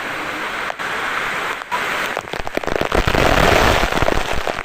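Steady rush of falling water; from about two seconds in, a dense crackling spatter with a low rumble grows loud, water splashing close to the microphone.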